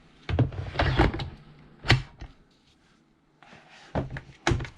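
Hard plastic clunks and clicks of a cordless chainsaw and its 60 V battery being handled, with a cluster of knocks in the first second, a single sharp click about two seconds in, and two more knocks near the end.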